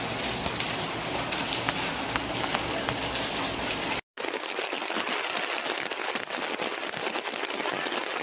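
Heavy rainstorm: a dense hiss of rain pelting surfaces with many small patters, with a low rumble in the first half. About four seconds in it cuts out for a moment and resumes as another stretch of heavy rain with less rumble.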